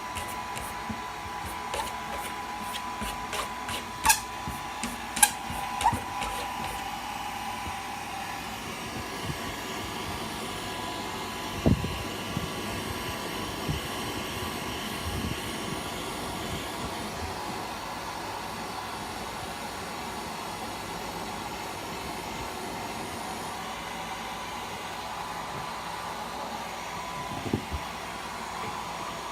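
Hand-held hair dryer running steadily with a thin whine. Over it come a few sharp clicks and dull knocks: a cat scratching and knocking at a door.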